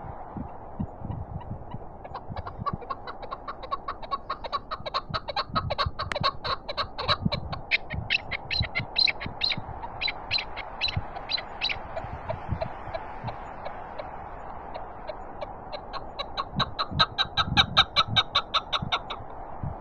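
Chukar partridge (chakor) calling in two runs of rapid, repeated notes: a long run of about ten seconds, then a shorter, louder one near the end. Wind hisses and thumps on the microphone throughout.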